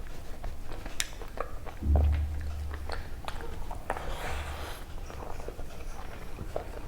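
Close-miked chewing and wet mouth clicks and smacks of someone eating chicken curry and rice by hand, with a low thud about two seconds in and a short hissing slurp or breath a little past the middle.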